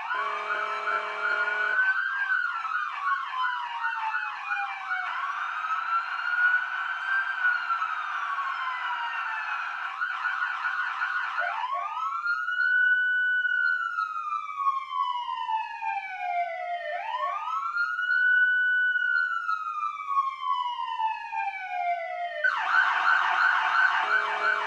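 Police sirens playing through a TV's speakers. Several sirens overlap in a fast warbling yelp at first. From about halfway there are two clean, slow rising-and-falling wails of about five seconds each, and a fast warble comes back near the end.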